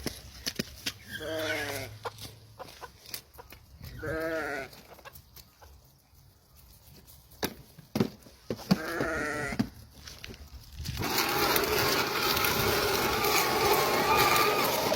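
A sheep bleating three times, each call a wavering quaver a second or so long. About eleven seconds in, a louder, continuous mix of farmyard sound sets in.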